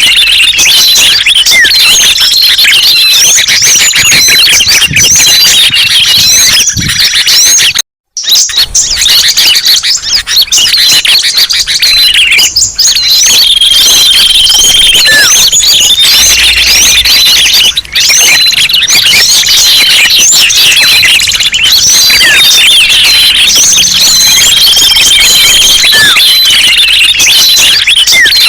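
A dense, loud chorus of many small songbirds chirping, twittering and whistling over one another, as in a mixed bird-lure recording. The sound cuts out briefly about eight seconds in.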